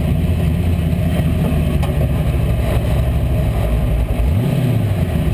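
357 cubic-inch small-block Chevy V8 running steadily at low revs, heard from the hood. About four seconds in it revs briefly, the pitch rising and then falling back.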